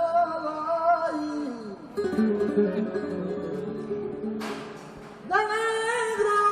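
Live flamenco fandango: a male cantaor sings long, wavering melismatic lines over acoustic flamenco guitar. The voice drops out briefly in the middle, leaving a short noisy burst just before it comes back strongly near the end.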